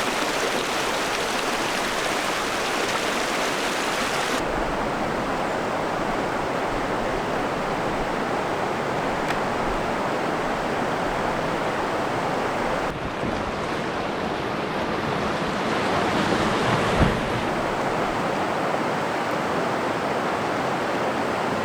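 Whitewater rapids rushing in a steady, loud wash of water, the tone changing abruptly twice, with one short knock about three-quarters of the way through.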